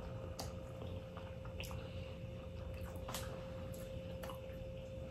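Quiet wet chewing of crab leg meat, with squishy mouth sounds and a few short sharp clicks spread through, over a steady faint hum.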